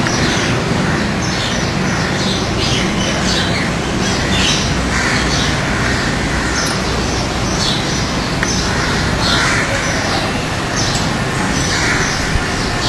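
Birds giving short calls over and over, about one or two a second, over a steady background noise.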